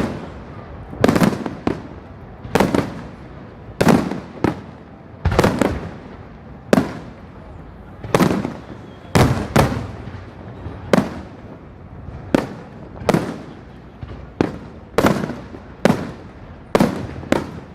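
Fireworks shells bursting overhead in a steady series of sharp bangs, about one every second, each trailing off in an echo.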